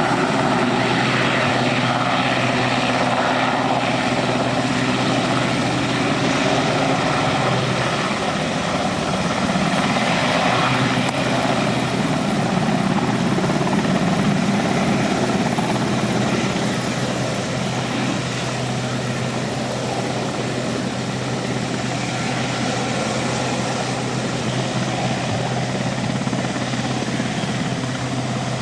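An aircraft engine running steadily and loudly, easing off slightly in the second half.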